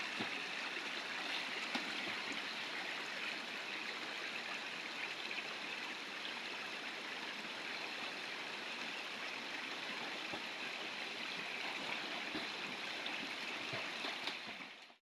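Steady rush of a stream flowing over rocks, with no change in level, cutting off just before the end.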